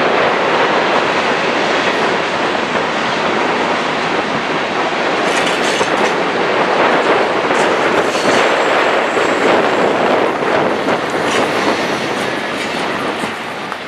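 Freight cars of a BNSF manifest train rolling past: a steady rumble of steel wheels on rail with repeated clacks, and a faint high wheel squeal now and then on the curve.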